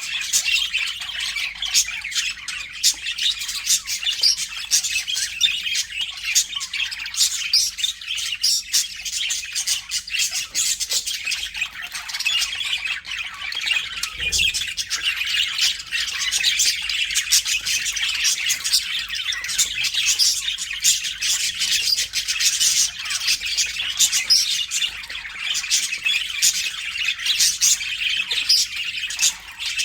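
A flock of budgerigars (budgies) chattering all at once, with overlapping chirps, warbles and squawks and no pauses.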